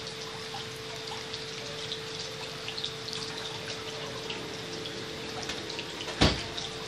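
Refrigerant trickling and gurgling like running water through a refrigerator's tubing, with small scattered ticks over a steady hum. One sharp thump comes about six seconds in.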